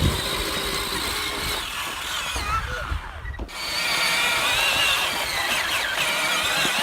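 Electric ride-on toy tractor's 775 motors and gearbox whining under load, driving through snow. The pitch wavers as the load changes, and the whine dips briefly about halfway through.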